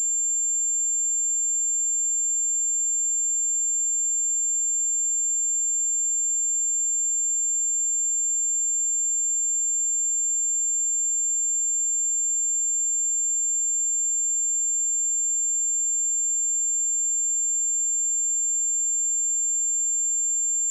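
Steady 7316 Hz sine-wave test tone: a single constant high-pitched pure tone at an even level, with no other sound.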